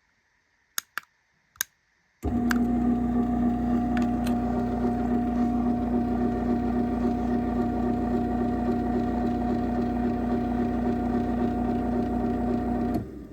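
Craftsman chain-drive garage door opener running its closing cycle: a few sharp clicks, then the motor starts about two seconds in, hums steadily at an even pitch for about eleven seconds and stops abruptly near the end.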